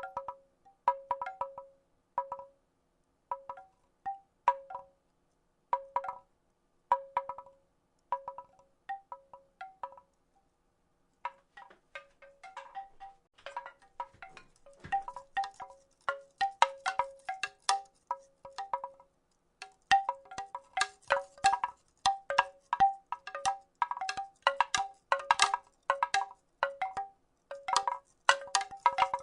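Wooden rattle shaken in short bursts of hollow, pitched clacks, about one burst a second. After a brief pause about ten seconds in, the clatter grows denser and louder.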